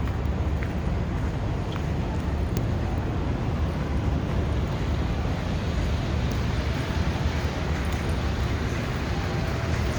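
Steady city street noise: traffic running on a snowy downtown street, a continuous low rumble with no single vehicle standing out.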